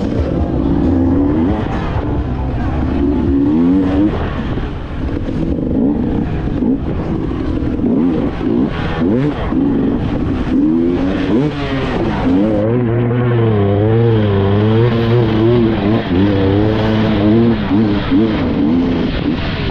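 Dirt bike engine revving up and down as the rider works the throttle, the pitch rising and falling again and again, heard close from onboard the bike.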